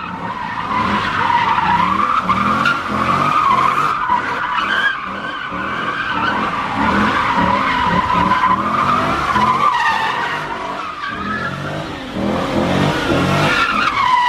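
A car's tyres squealing in a long, continuous skid, the squeal wavering in pitch, with the engine revving hard underneath: a car sliding and spinning its tyres in a burnout.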